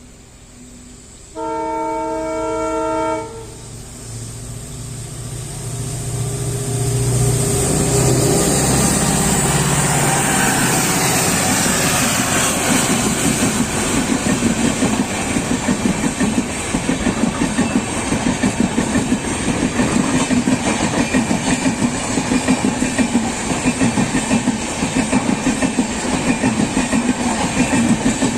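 A WDP4D diesel locomotive sounds a horn chord for about two seconds. Its engine then grows louder as it approaches, and the rhythmic clickety-clack of the passenger coaches' wheels over the rail joints follows as the express passes.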